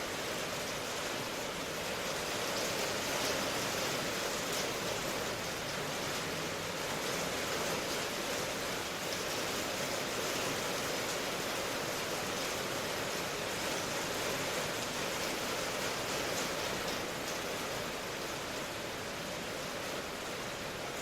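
Steady, even rain noise with no separate drops or patter standing out, strongest in the middle and upper range.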